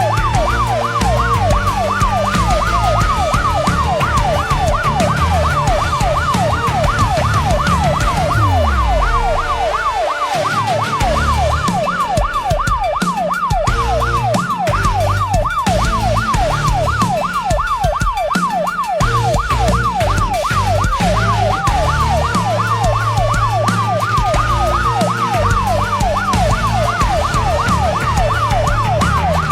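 Emergency vehicle sirens sounding together: one in a fast, continuous yelp, the other a slow wail that rises and falls three times, over a low vehicle engine rumble.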